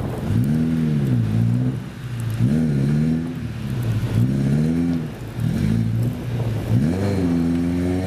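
Car engine revving up and dropping back again and again, about five times, as the car tries to drive out of deep snow.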